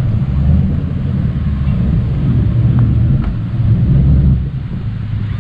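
Car engines and exhausts rumbling low as cars drive slowly in, swelling and easing.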